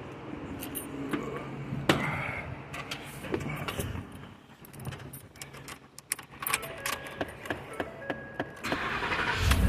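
Keys jangling and clicking, with a few short electronic beeps, as the freshly re-timed 5.0-litre engine is readied. It starts up just before the end with a loud low rumble on its first run after the timing-kit job.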